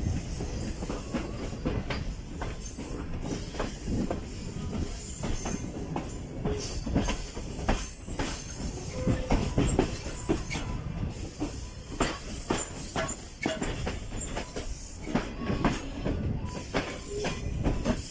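Passenger train arriving and rolling slowly through the station, its wheels knocking irregularly over the rail joints with intermittent high-pitched wheel squeal.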